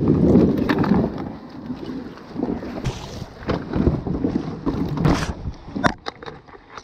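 Plastic kayak hull scraping over gravel as it is pushed off, then moving river water with wind on the microphone. A few sharp knocks come near the end.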